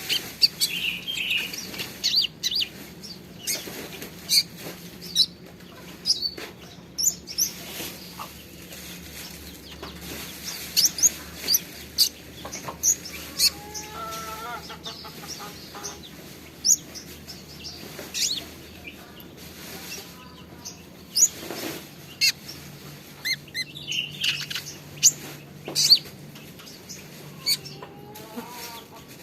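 Young caged small songbird chirping: short, sharp high calls repeated at irregular intervals, with a softer wavering lower call about midway and another near the end.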